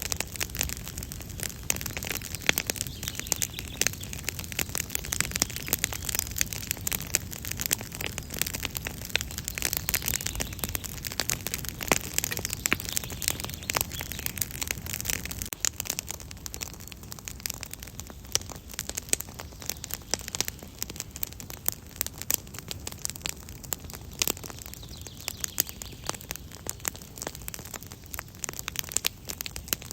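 Wood campfire crackling: a dense, continuous run of small snaps and pops over the low rush of the flames, which eases slightly about halfway through.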